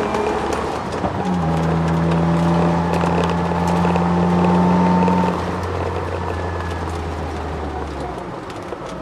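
Twin-turbo Ford Sierra XR4x4's engine heard inside the cabin under hard acceleration. The pitch drops with a gear change about a second in and climbs again, and then the engine note falls and quietens about five seconds in as the throttle is lifted. A thin whine rises with speed through the middle, which the owner puts down to the solid diff mount.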